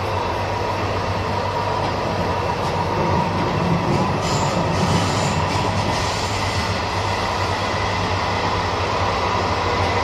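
Passenger train running at speed, a steady rumbling noise with a low hum, as heard from inside a carriage. A faint high wheel squeal comes in briefly about four to five seconds in.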